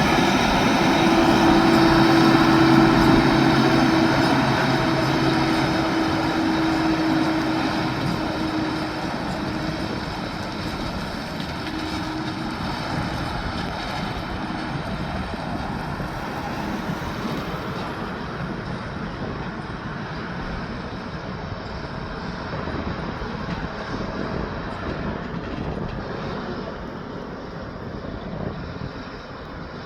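Heavy truck passing close with its engine note prominent, loudest a few seconds in, then slowly fading as it moves away and leaving a steady rumble of road noise.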